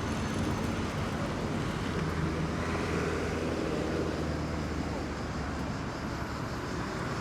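City street traffic: a steady low rumble, with a motor vehicle engine passing and loudest around the middle.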